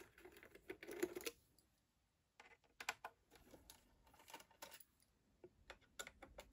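Faint clicking and light scraping of a small screwdriver working the screws of an iMac G4's aluminium bottom plate. The clicks come in a cluster, pause briefly about two seconds in, then resume scattered.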